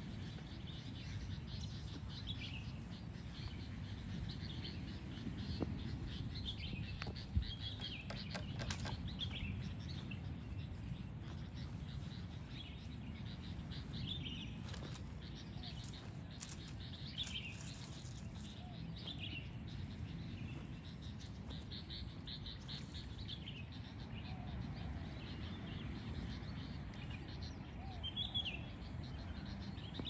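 Small birds chirping in short, scattered high calls over a steady low outdoor background noise, with a few brief clicks.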